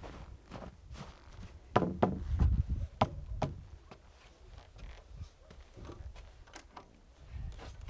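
A scatter of knocks and thumps, loudest in a cluster about two seconds in, with sharp clicks a second later.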